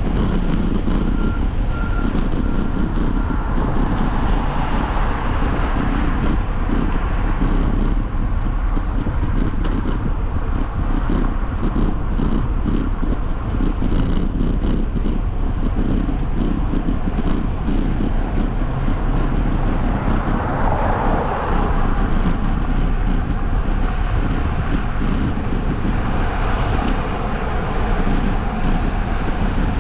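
Steady rumble of wind and road noise from a moving bike, strongest in the low range, with scattered light clicks and rattles partway through.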